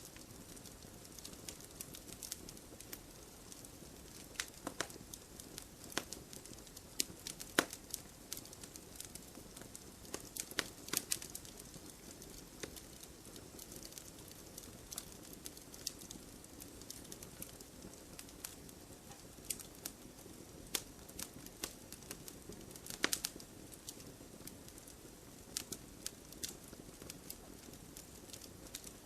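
Campfire burning: wood crackling and popping in irregular sharp snaps over a steady low hiss, with a few louder clusters of pops.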